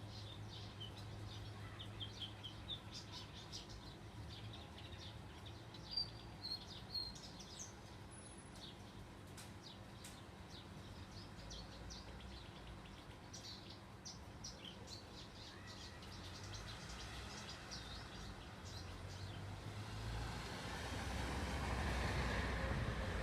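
Small birds chirping: many short, high chirps and twitters, some gliding in pitch, over a steady low hum. A louder low rumble builds in over the last few seconds.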